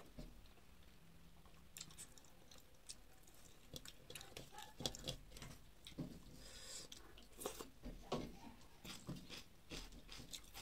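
A person chewing a mouthful of rice and curry eaten by hand: faint, irregular mouth clicks and smacks.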